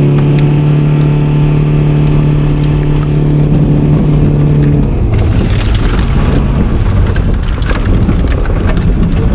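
An engine revved up and held at one steady pitch for about five seconds, then dropping into a noisy rumble with crunching and scattered crackles.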